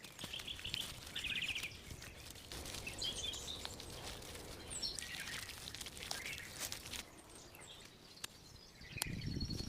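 Small birds chirping, with a short rapid trill about a second in, over scattered light clicks and knocks. A louder burst of low knocks comes near the end.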